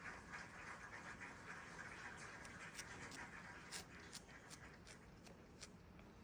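Near silence: faint room hiss with a scattering of soft, short clicks through the middle and later part.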